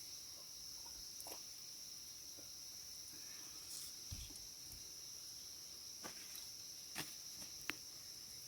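Insects chirring steadily in one high, even band, with a few short sharp clicks or taps scattered through it, the two sharpest near the end.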